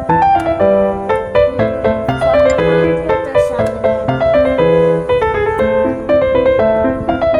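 Background piano music: a quick, continuous run of struck notes over a lower line of bass notes.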